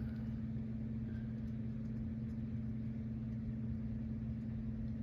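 Steady low mechanical hum, even throughout.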